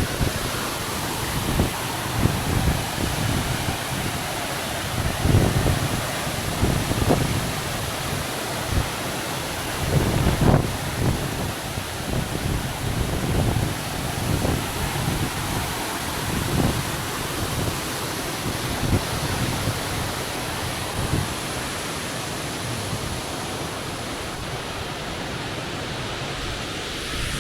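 Large waterfall's steady rush of falling water, with gusts of wind buffeting the microphone now and then.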